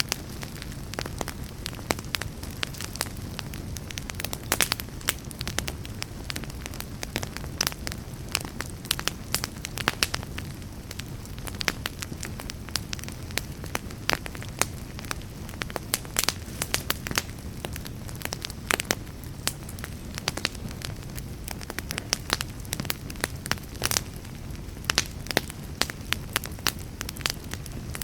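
Fire in a fireplace crackling, with many irregular sharp pops and snaps over a steady low rumble of the flames.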